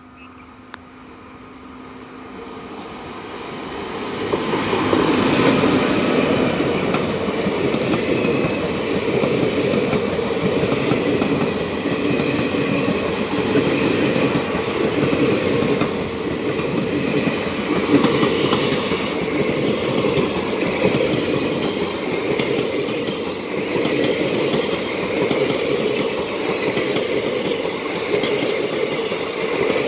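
Express passenger train passing close by at speed. The noise swells over the first five seconds as the locomotive approaches and goes by, then the coaches' wheels run on the rails in a steady, loud rumble.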